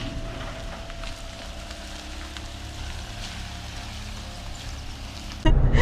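Steady low rumble of a car on the move, with light ticks and hiss over it; the rumble jumps much louder near the end.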